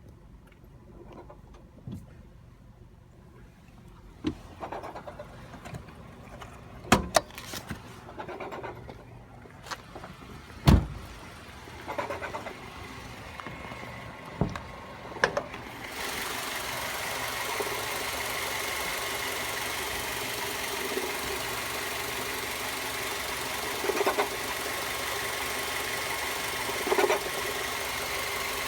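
Scattered clicks and knocks, then about halfway through the 2007 Mazda 3's 2.0L four-cylinder engine starts and runs steadily, with a couple of short louder surges near the end. This is the engine whose strange rattle persists after new belts and a new tensioner pulley.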